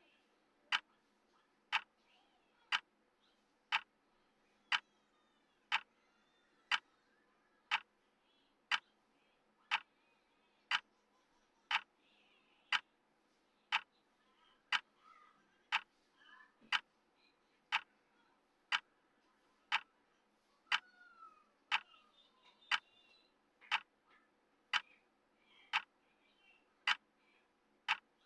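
Clock-style tick of a countdown timer: one sharp tick every second, perfectly regular.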